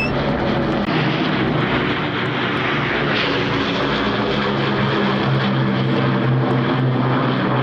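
World War II piston-engined propeller warbirds flying a display, their engines a loud, steady drone with a slight shift in pitch midway.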